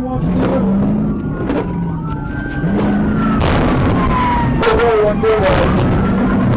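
Police siren with a slow rising-and-falling wail over the engine of a patrol car in pursuit, with scattered sharp knocks.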